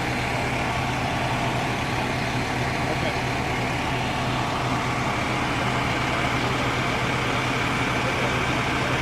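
Fire truck engine running steadily at idle, an even, unchanging hum.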